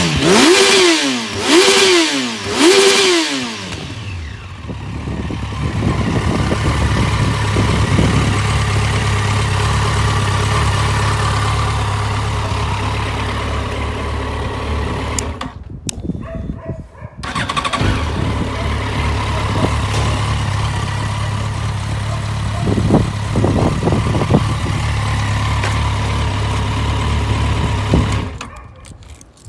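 Yamaha FZ1N's inline-four engine through an aftermarket Akrapovič exhaust, revved in three quick throttle blips and then idling steadily. The sound cuts out briefly about halfway and stops suddenly near the end.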